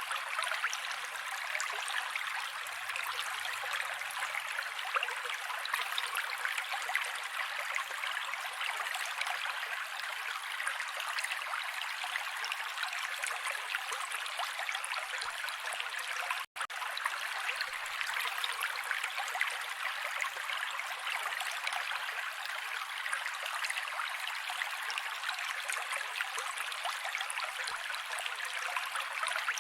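Mountain creek flowing steadily, an even rushing babble of water with little low rumble. The sound cuts out for an instant about halfway through, at a join in the looped recording.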